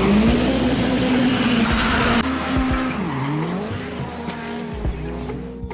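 Race car engine and tyre-squeal sound effect, its pitch wavering and dipping in swoops, over background music.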